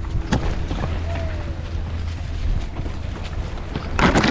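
Wind buffeting a ride camera's microphone during a fast mountain-bike descent, with the bike rattling over the trail and a loud burst of noise near the end.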